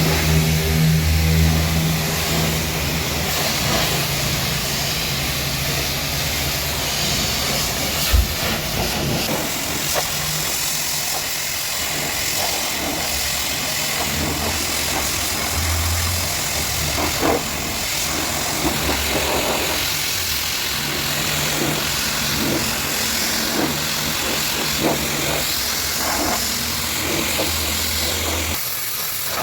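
Pressure washer running: a steady hiss of water spray over the low hum of the pump motor, with a few short knocks.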